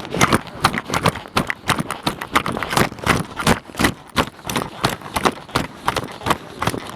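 Quick footsteps, about three to four a second, with sharp, uneven taps.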